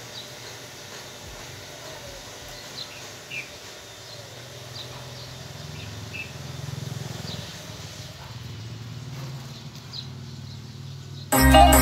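Small birds chirping, short high calls roughly once a second, over a low steady hum of outdoor background. Music comes in suddenly and loudly near the end.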